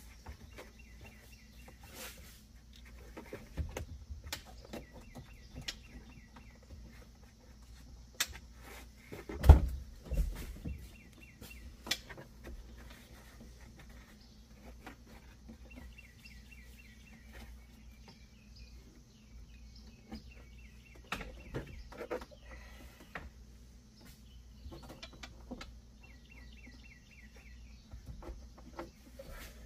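A small bird sings a short trill of rapid chirps again and again, every few seconds, over scattered knocks and clicks of hands working on parts. The loudest sound is a single heavy thump about nine seconds in. A low steady hum runs underneath.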